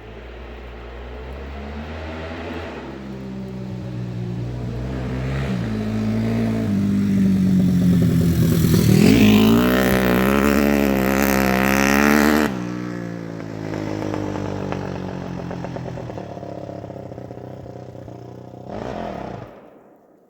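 Suzuki RM-Z250 four-stroke single-cylinder dirt bike engine revving under throttle, getting louder and wavering in pitch, then dropping sharply to a lower run about twelve seconds in. The sound cuts off near the end.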